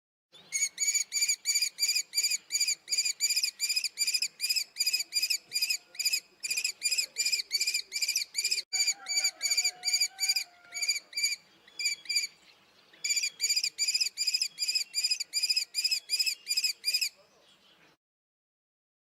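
Common kestrel calling a rapid, shrill kee-kee-kee series, about five notes a second. It pauses briefly a few times and stops about two seconds before the end.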